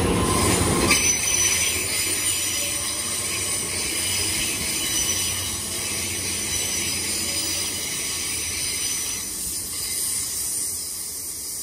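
GWR Hitachi Class 800-series intercity train running past along the platform: the rumble of its wheels on the rails, with a thin high squeal from the wheels. It is loudest in the first second, then settles and slowly fades.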